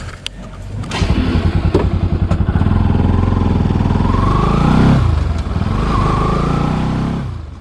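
Bajaj Pulsar NS200's single-cylinder engine running and revving: it comes in about a second in, its pitch climbs to a loudest peak near five seconds, rises again briefly, and fades out near the end.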